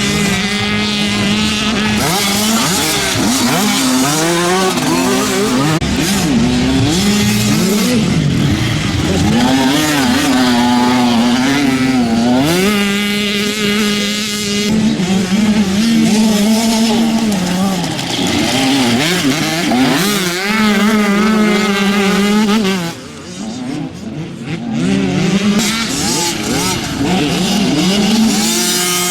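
Several 65cc and 85cc two-stroke motocross bikes running hard, their engines revving up and dropping back through gear changes as they pass, with overlapping engine notes. The sound dips briefly about three quarters of the way through.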